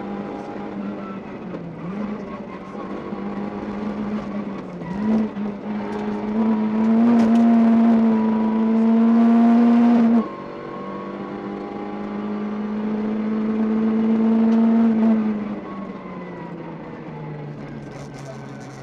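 Citroën Saxo VTS rally car's four-cylinder engine heard from inside the cabin, pulling hard under full throttle with a rising note. It lifts off sharply about ten seconds in, pulls again, then eases off to a lower note near the end.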